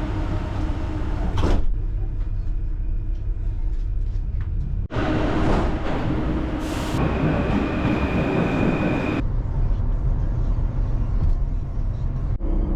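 A vehicle in motion, running with a steady low rumble; louder noisy stretches start and stop abruptly, and a steady high whine sounds for about two seconds past the middle.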